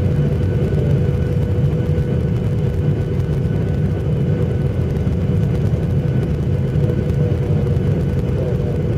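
Airliner cabin noise: a steady low rumble of engines and airflow with a constant hum over it, unchanging in level.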